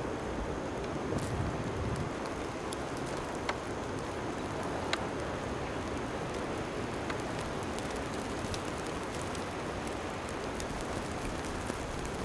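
Steady blizzard wind rushing past the microphone, with scattered light ticks.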